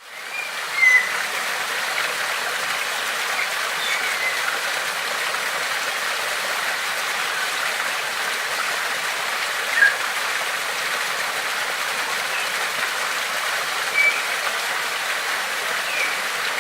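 Flowing water, a stream or small waterfall, rushing steadily, with short bird chirps about a second in, near the middle and a few more near the end.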